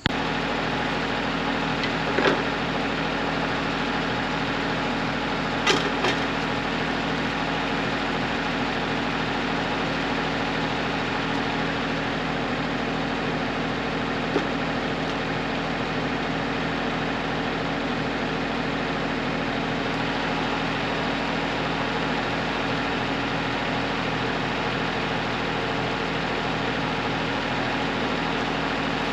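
Kubota L3901 compact tractor's three-cylinder diesel engine running steadily at an even speed, with a few brief knocks over it.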